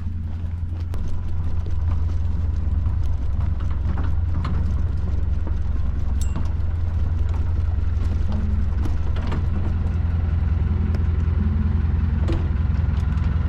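Small river ferry boat's engine running steadily, getting a little louder about a second in.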